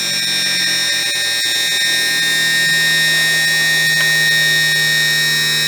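Electric hydraulic pump of a Bigfoot landing gear running steadily with a loud, high whine made of several fixed tones, pumping ATF to extend the cylinder.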